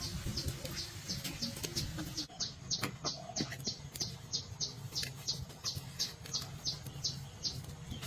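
A high chirp repeated evenly, a little over two times a second, over a low steady hum, with a few faint clicks.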